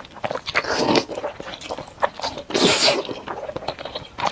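Close-miked eating of sticky, sauce-coated noodles: wet mouth clicks and chewing, with one loud slurp a little past the middle.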